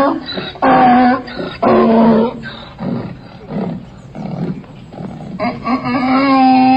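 Donkey braying: three loud pitched calls in quick succession, then softer wheezing gasps in the middle, then another long loud bray from about two-thirds of the way in.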